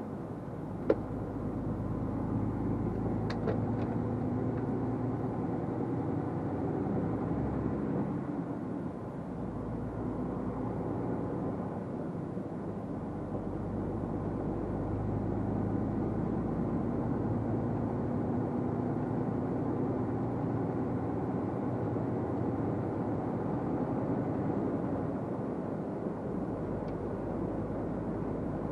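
Truck engine and road noise heard from inside the cab while driving: a steady low drone whose engine note shifts slightly now and then. A single sharp click about a second in.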